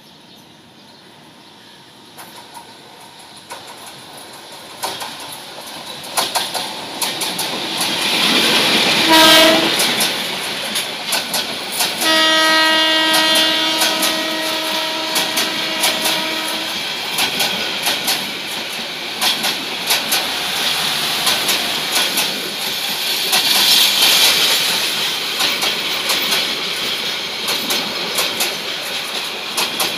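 Bangladesh Railway's Silk City Express intercity train approaching and passing close by. A rising rumble is followed by a short horn blast, then a few seconds later a long blast of about four seconds. After that come the steady rumble and rhythmic clatter of the coaches' wheels over the rail joints as they go past.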